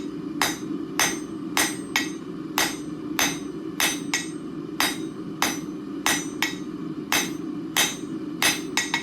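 Blacksmith's hand hammer striking hot steel on an anvil in an even rhythm, about two blows a second, each with a short metallic ring. The smith is drawing out a taper on the bar. A steady low hum runs underneath.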